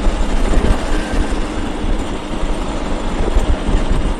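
Motorcycle riding along the road at speed, its engine and road noise heard from the rider's own camera under a heavy, uneven low rumble of wind on the microphone.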